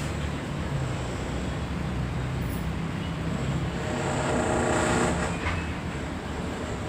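Steady mechanical running noise with a low hum; a second, higher hum joins about four seconds in.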